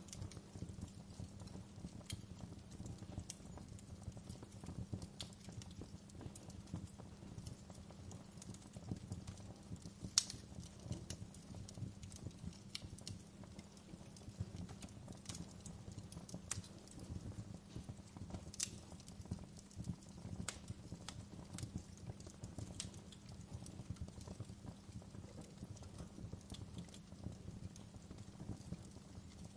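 Wood fire burning in a fireplace, with a steady low rumble of the flames and irregular sharp crackles and pops from the burning logs, one louder pop about ten seconds in.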